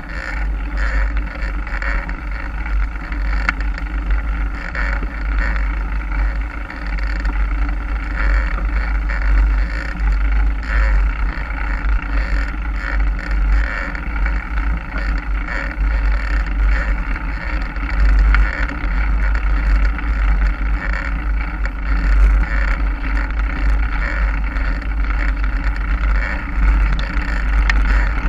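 Wind buffeting the microphone while riding a mountain bike, with a steady rumble and rolling trail noise.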